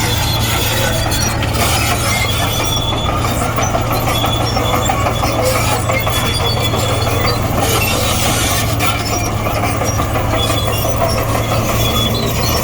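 Komatsu D58E crawler bulldozer working, its diesel engine running steadily under a low hum while the steel tracks squeal in short high notes.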